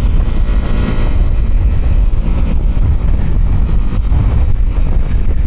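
Motorcycle riding at road speed: a steady rumble of wind buffeting the rider's microphone over engine and road noise.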